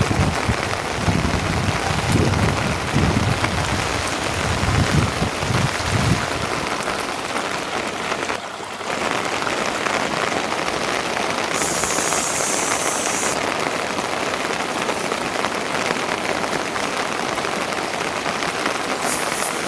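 Steady heavy rain, an even dense hiss, with low rumbling gusts through the first six seconds.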